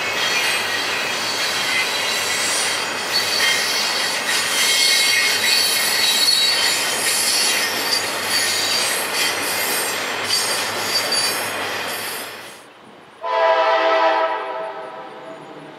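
Double-stack intermodal freight train rolling past, with steady rail noise and high-pitched squealing from its steel wheels. The sound cuts off abruptly near the end, and a locomotive horn then sounds one long chord that fades away.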